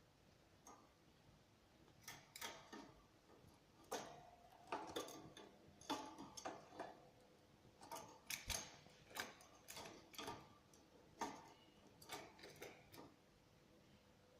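Faint, irregular clicks and taps from young Lancashire canaries moving about in their cage, coming in loose clusters and stopping near the end.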